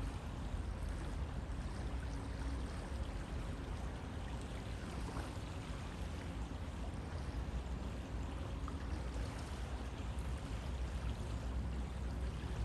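River water flowing steadily, a continuous rushing with a low rumble.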